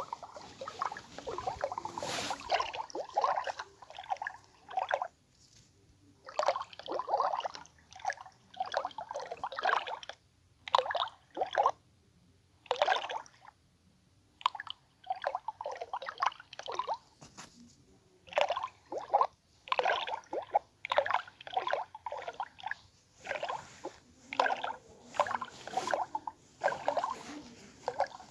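ASMR inaudible whispering close to the microphone: short, irregular bursts of unintelligible breathy whisper with wet mouth sounds, broken by brief pauses.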